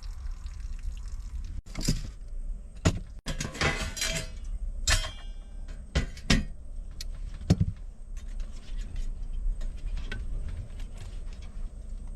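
Cookware and utensils being handled during cooking: a series of clinks, knocks and clatters, busiest a few seconds in, with a short metallic rattle, over a steady low rumble.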